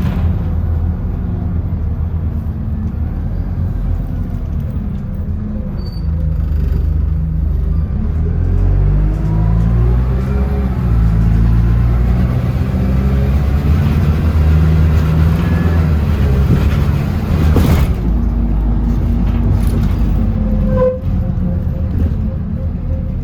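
Bus engine running under way, its pitch climbing in steps through the gears as it accelerates, with one sharp knock near the end.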